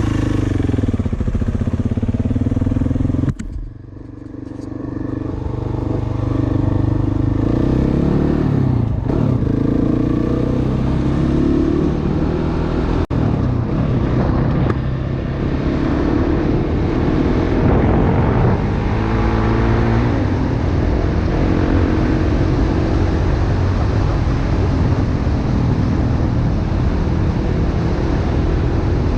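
Single-cylinder dirt bike engine running under way with a steady drone. The throttle shuts off sharply about three seconds in, then the engine pulls back up and the revs rise and fall through the rest of the ride.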